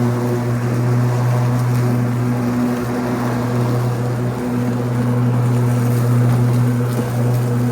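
Ryobi 80V electric riding lawn tractor mowing, its electric blade motors and spinning deck blades making a steady low hum with a steady higher tone over it. The blades are set to medium speed and the drive to low.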